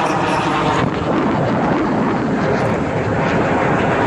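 Steady, loud rushing noise with no clear pitch or rhythm.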